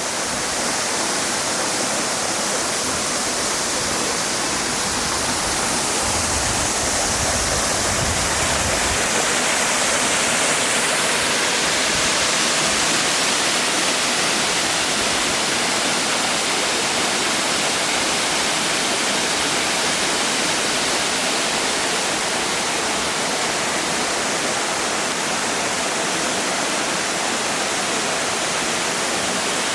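Waterfall: water of a tall multi-tier falls pouring and splashing onto rock in a steady, even rush.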